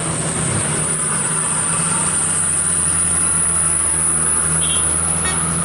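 Box truck's engine running steadily under heavy load on a steep climb, with a brief high tone about three-quarters of the way through.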